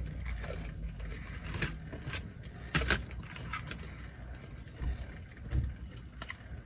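Quiet eating of chicken nuggets: a few scattered soft clicks and crunches of chewing and handling food, over a steady low rumble like an idling vehicle.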